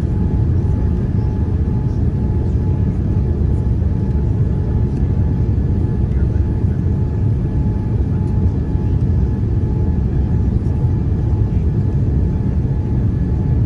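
Steady cabin rumble of a Boeing 787-9 with GEnx engines, heard from inside the cabin, with a faint steady whine running through it.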